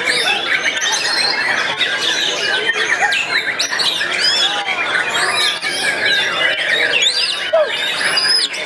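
Murai songbirds (Copsychus) singing without a break: many overlapping whistled notes, trills and quick rising and falling calls.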